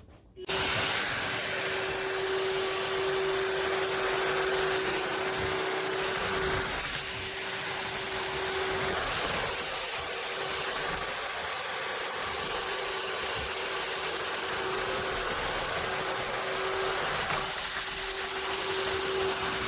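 Bissell CrossWave Cordless Max wet-dry vacuum-mop switched on and running: it starts suddenly about half a second in, then holds a steady hiss of suction over a constant motor hum. It is loudest for the first couple of seconds, then settles a little.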